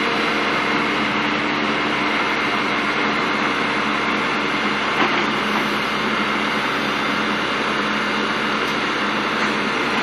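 Backhoe's diesel engine running steadily, with a short knock about five seconds in.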